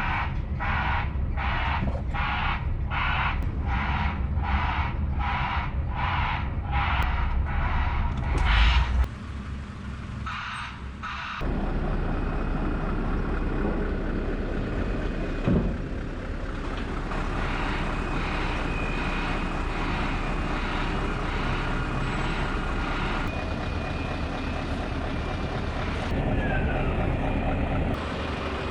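Heavy truck engine running under an electronic warning beeper sounding about twice a second, which stops about eight seconds in. After a short lull a steady machinery drone takes over, with a single thump about fifteen seconds in.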